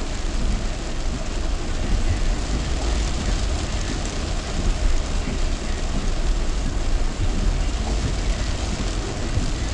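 Heavy rain on a moving car, heard from inside as a steady hiss mixed with a deep rumble of tyres and engine on the wet road.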